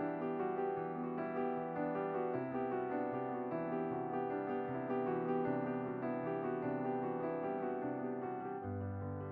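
Background piano music, a steady flow of soft notes over changing bass notes.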